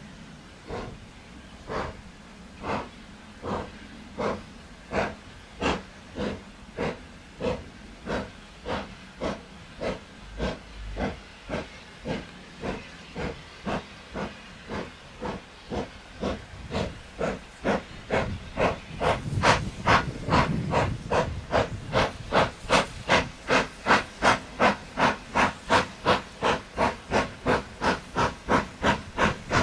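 Steam locomotive working, its exhaust chuffing in even beats with a steam hiss. The beats quicken from about one and a half to about three a second as it gathers speed, and they grow much louder about two-thirds of the way through.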